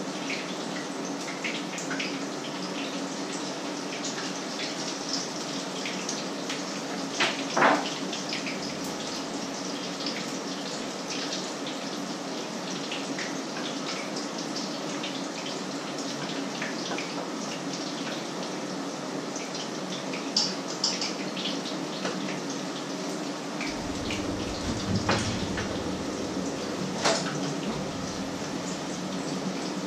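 Patties frying in oil in a pan: a steady sizzle dotted with small pops and crackles. A couple of louder knocks of pans or utensils come about a quarter of the way in and again near the end.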